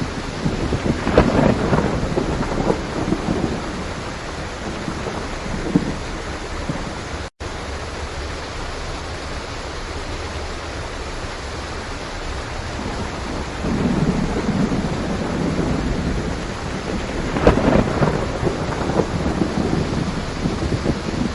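Steady heavy rain with thunder rumbling over it, once about a second in and again in a longer roll in the second half, with sharper cracks within the rumbles. The sound cuts out for a split second about seven seconds in.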